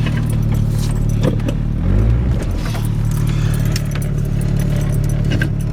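1991 Chevy S10's 2.5-litre four-cylinder engine running under load as the truck works through deep snow, its pitch dipping and rising again about two seconds in. Light clicks and jingles sound over the engine.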